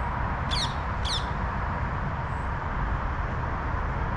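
Ring-necked parakeets calling: two harsh, shrill squawks about half a second apart near the start, over a steady low rumble.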